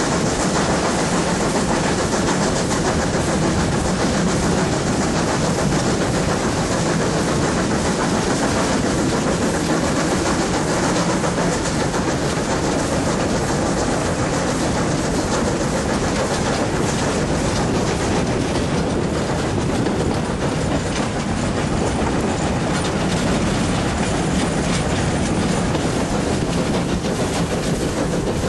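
A train hauled by steam locomotive DD17 1049, heard from a carriage window while it is running: a steady rumble of wheels on the rails with clickety-clack.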